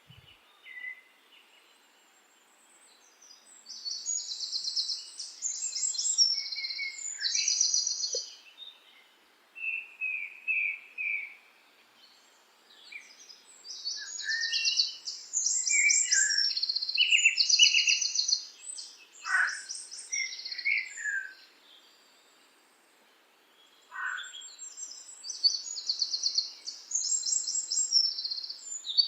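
Songbirds singing: fast high-pitched trills and chirps in bursts of a few seconds, separated by short quiet gaps, with a couple of quick downward-sweeping calls near the middle and about three-quarters through.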